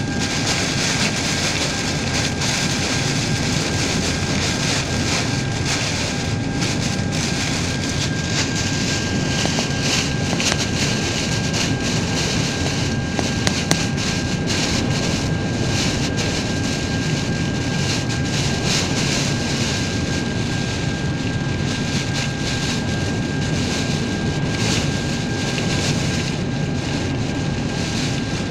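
Typhoon wind: a steady, unbroken rushing noise with no gusting breaks, and a faint steady high tone beneath it.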